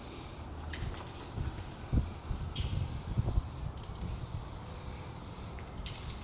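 Aerosol spray paint can hissing in long bursts, broken by short pauses, with low bumps and knocks underneath.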